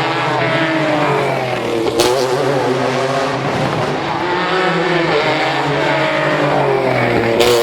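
Rally car engine revving hard, its pitch rising and falling through gear changes as it drives past. There is a sharp crack about two seconds in and another near the end.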